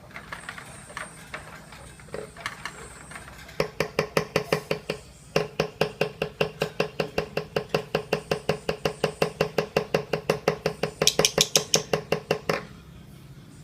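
Lovebird ngekek: a few scattered chirps, then a long, rapid run of sharp repeated 'kek' notes at about seven a second, with one short break. The run grows loudest just before it stops about a second before the end.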